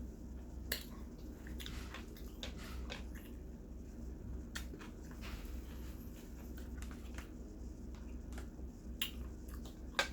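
Someone chewing food, with scattered small mouth clicks and smacks, over a steady low hum.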